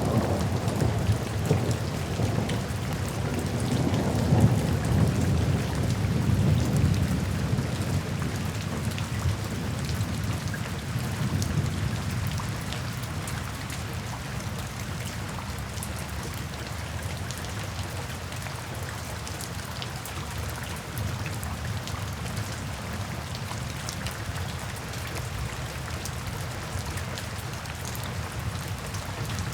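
Steady rain falling into puddles and standing water, with many small drop patters. A low roll of thunder fills the first part and fades away about halfway through, leaving only the rain.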